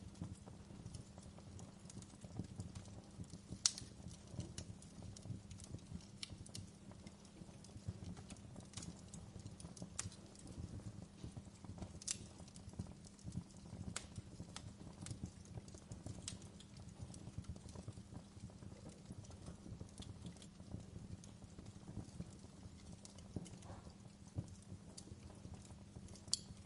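Wood fire crackling: irregular sharp pops and snaps from burning logs over a steady low rumble, with the loudest pop about four seconds in.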